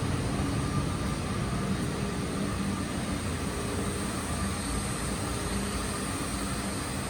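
2009 Saturn Outlook's 3.6L V6 engine running steadily at idle.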